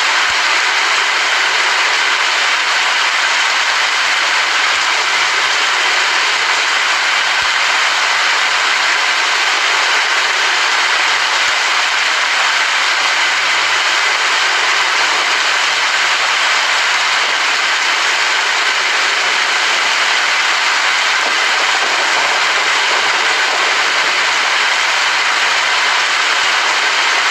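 Rain falling steadily, a dense, even hiss with no breaks or distinct drops.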